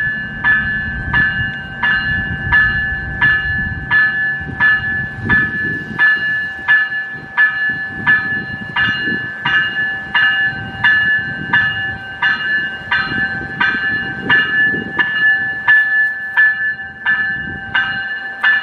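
Railway bell ringing steadily, about one and a half strokes a second, each stroke ringing on. A low rumble underneath during the first six seconds or so.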